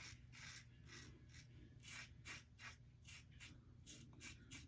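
Double-edge safety razor scraping through lathered stubble in short, quick strokes, about three a second, faint.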